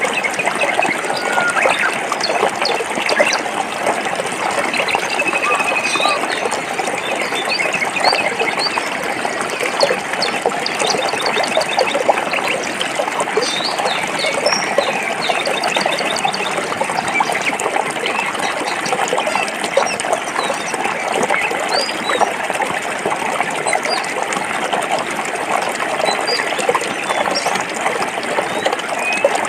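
Forest stream flowing over rocks: a steady rush of water with small splashes and gurgles, and birds chirping here and there above it.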